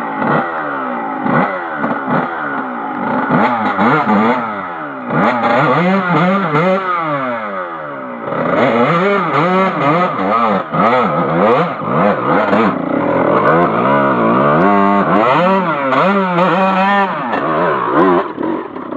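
Off-road motorcycle engine revving up and easing off over and over, its pitch climbing and falling every second or so as the bike is ridden on a dirt trail, with some clattering.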